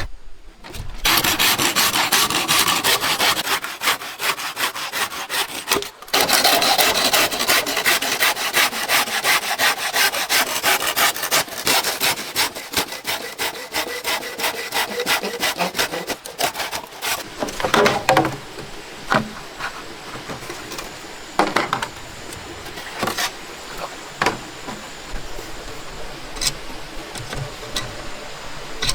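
Saw cutting through wood in rapid, continuous strokes, with a brief break about six seconds in. From about seventeen seconds the sawing stops and gives way to scattered knocks and scrapes of wood being handled.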